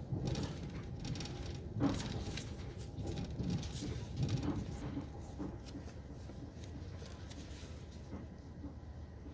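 Inside a moving passenger train coach: the steady low rumble of the train running, with scattered short clicks and knocks, livelier in the first half and a little quieter after about five seconds.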